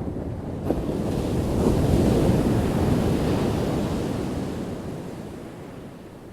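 Ocean wave breaking on the shore: the surf swells with a sharp crack just under a second in, peaks about two to three seconds in, then washes out and fades.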